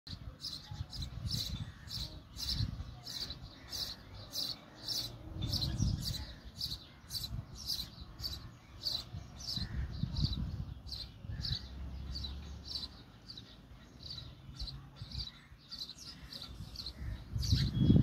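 A small bird gives short high chirps over and over at an even pace, about two a second, at a nest hole in a brick wall. Patches of low rumbling on the microphone come and go, loudest near the end.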